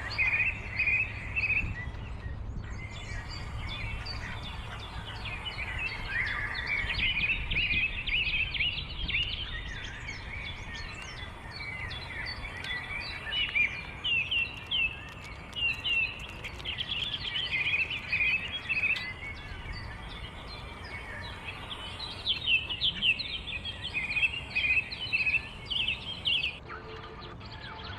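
Many small birds chirping in rapid, overlapping short calls, over a steady low background rumble of outdoor noise.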